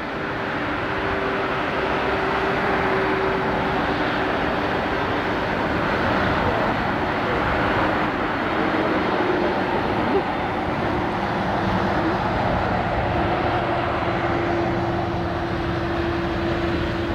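Jet engines of an Air New Zealand Boeing 777-200ER as it lands and rolls out: a loud, steady rush with a faint hum that slowly shifts in pitch.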